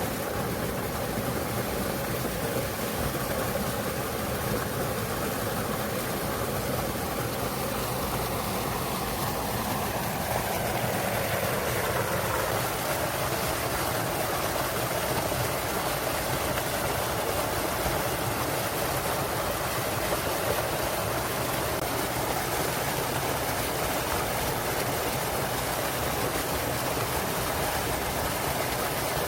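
A small waterfall in a mountain stream, clear water rushing and splashing steadily, its tone sliding a little lower about ten seconds in.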